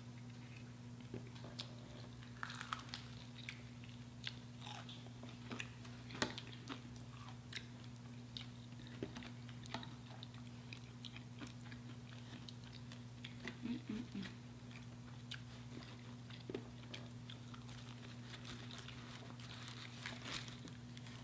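Biting into and chewing crispy fried chicken, with scattered sharp crunches of the fried coating and soft chewing between them. A steady low hum runs underneath.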